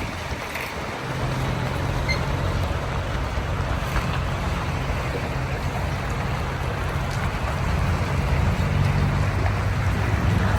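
Road train prime mover's diesel engine running with a steady low hum that comes in about a second in, with wind buffeting the microphone.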